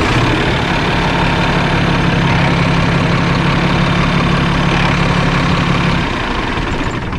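Flatbed straight truck's engine idling steadily just after being started. Its note eases slightly about six seconds in.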